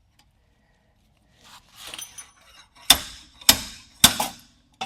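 Metal parts rattling and clinking, then three sharp ringing metal-on-metal strikes about half a second apart and a short knock near the end.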